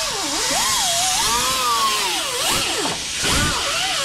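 A handheld power tool running continuously under load, its motor pitch dipping and rising as it bites, over a steady gritty hiss.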